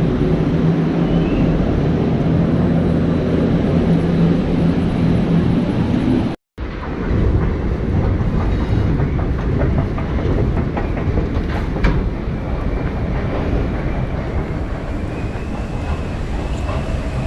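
Metro train running, a loud steady rumble with a low hum through the first six seconds. The sound cuts out for a moment about six seconds in, then the rumble carries on with a few sharp clicks.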